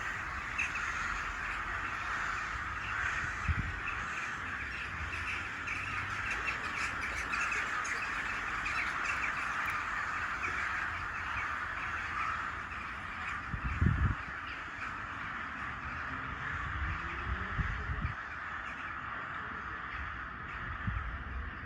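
A large flock of birds calling as it flies over, many short calls overlapping into a continuous chatter. A few low thumps sound through it, the loudest about fourteen seconds in.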